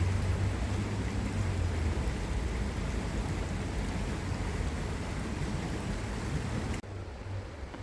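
Steady rushing of a flowing stream, with a deep rumble underneath. About seven seconds in it drops suddenly to a quieter rush.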